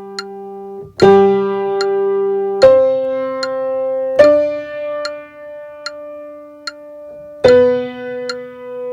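Tenor line of a hymn played one note at a time on an electric piano or keyboard. Four new notes enter, some held for a few seconds, over a steady click about every 0.8 s.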